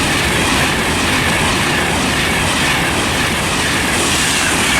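Virgin Trains Class 390 Pendolino electric train, unit 390136, passing through the station at speed. It makes a loud, steady rush of wheel, rail and air noise.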